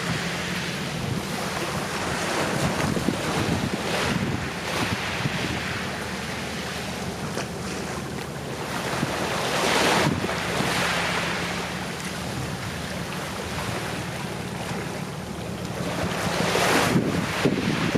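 Calm sea waves washing and breaking gently on a shore, a steady wash that swells twice: about ten seconds in and again near the end.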